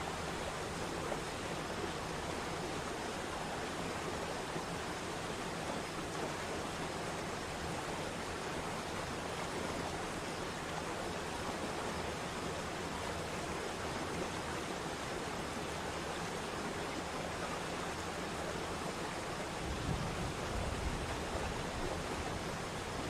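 Steady rush of falling water from a waterfall. The low rumble grows stronger about twenty seconds in.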